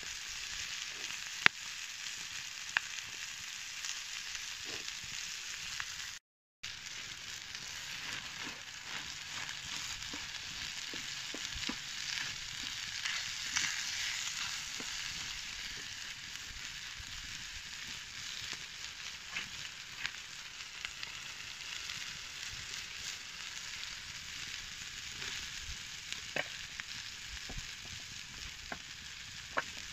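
Chicken pieces and vegetables sizzling in a large steel pan over a wood fire: a steady frying hiss with scattered sharp pops, growing a little louder while a wooden spoon stirs the pan midway. The sound drops out for a moment about six seconds in.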